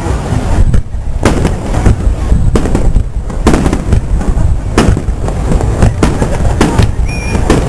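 Aerial fireworks bursting in quick succession: sharp bangs and crackles about two a second over a continuous low rumble of overlapping explosions.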